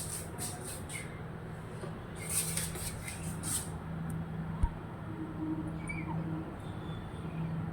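Two runs of rapid, very high-pitched chirps, one at the start and one a couple of seconds in, from a small bird or squirrel, over a steady low hum.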